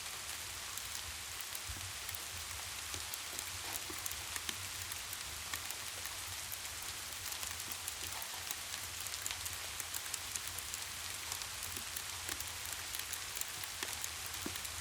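Steady rain, an even hiss with many small sharp ticks scattered through it, over a low steady rumble.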